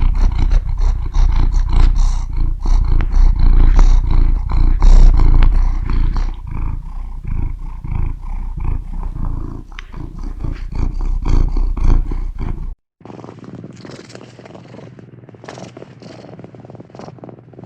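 Cat purring loudly close to the microphone, a deep rumble that swells and fades with each breath. About thirteen seconds in it cuts off abruptly, and a much quieter purr follows.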